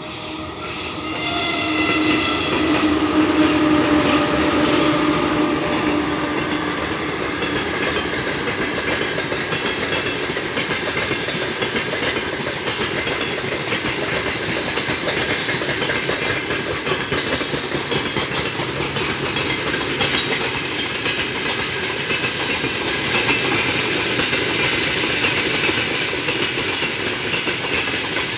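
A 3ES5K 'Ermak' electric locomotive passes with a pitched whine of several tones for the first few seconds. Then its loaded freight wagons roll by with steady wheel-and-rail noise, broken every few seconds by brief high squeals from the wheels and brakes as the train brakes.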